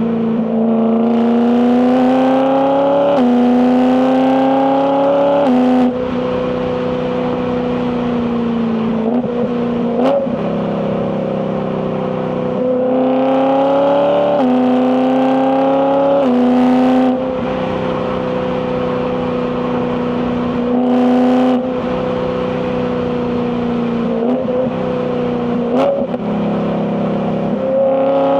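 BMW E92 M3's 4.0-litre S65 V8 pulling through the gears: the engine note climbs steadily, then drops suddenly at each quick DCT upshift, several times over, with stretches of steady cruising in between.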